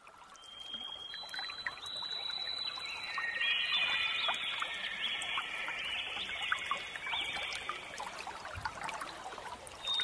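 Water trickling, fading in at the start, with high held tones and short whistle-like notes over it.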